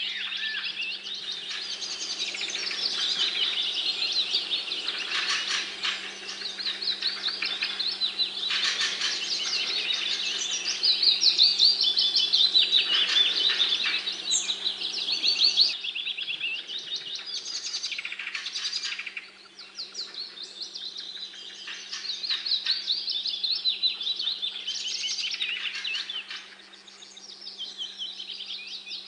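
A dense chorus of small birds chirping and twittering, with many rapid overlapping calls, easing off briefly about two-thirds of the way through and again near the end. A faint steady low hum runs underneath.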